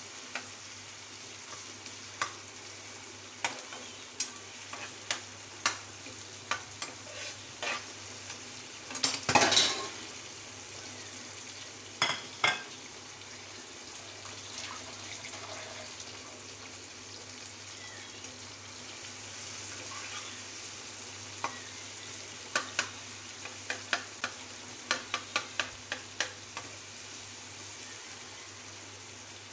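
Chopped onions, green chillies and tomatoes frying in ghee in a nonstick pan, a steady sizzle, with a spatula scraping and tapping against the pan in spurts. A louder clatter comes about nine seconds in.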